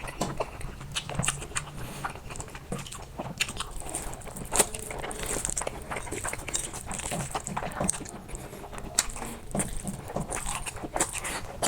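Close-miked eating sounds: a person chewing a mouthful of black noodles and fried egg, with many wet smacking clicks. A longer hissy slurp comes about five seconds in and again near the end.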